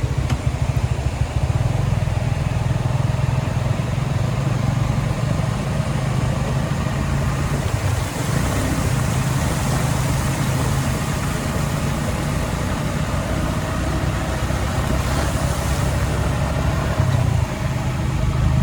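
A vehicle engine running steadily, with a faint rushing hiss that swells twice.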